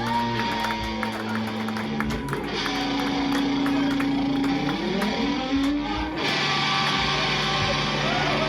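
Live electric guitar music played loud: long held notes, one sliding up in pitch about five seconds in, over a dense wash of band noise.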